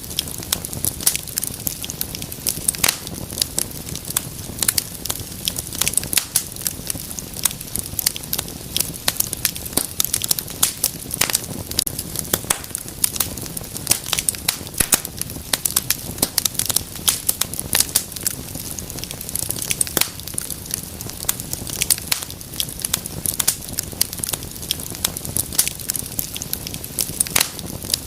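Wood fire crackling and popping steadily: dense, irregular sharp snaps over a low, soft rumble of flames.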